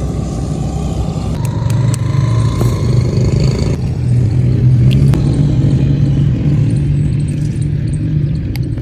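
Car engine running with a deep, steady low hum, holding roughly the same pitch throughout, with a few faint clicks over it.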